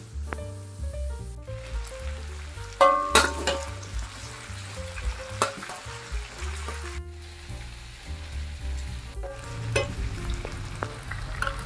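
Diced potatoes frying in hot oil in a wok, sizzling steadily, with a metal spatula scraping and clicking against the pan as they are stirred. The sizzle is loudest about three seconds in.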